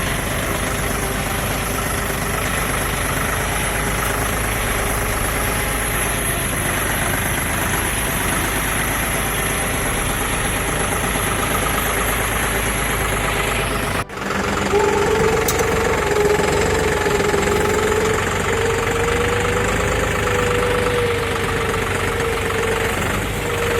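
John Deere 5310D tractor's three-cylinder diesel engine running steadily. After a sudden break about 14 seconds in, a steady whine that wavers slightly in pitch is heard over the engine.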